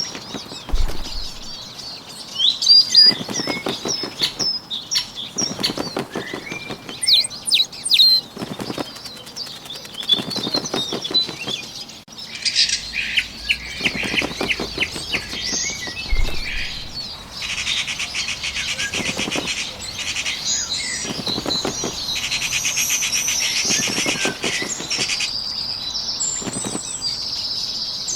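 Bird wing-flapping sound effect in short bursts every two seconds or so, over small birds chirping and singing. A rapid trill runs through the second half.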